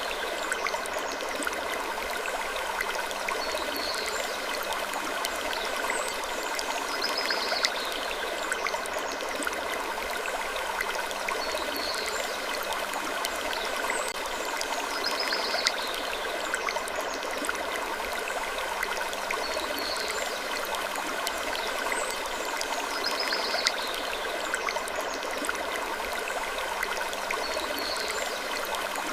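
Sleep-ambience wood creaking: soft creaks recurring every few seconds in an even, repeating pattern over a steady rushing noise bed, with occasional light clicks.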